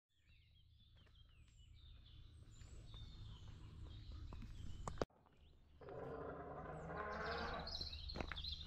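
Small birds chirping over a steady low rumble of wind on the microphone. A sharp click comes about five seconds in, followed about a second later by a short stretch of scuffing noise.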